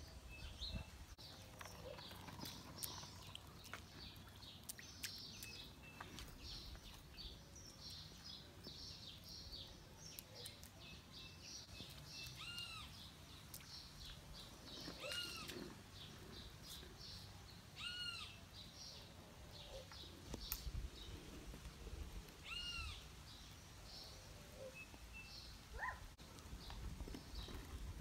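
Birds chirping faintly, with one short arched call repeated about four times in the second half, a few seconds apart.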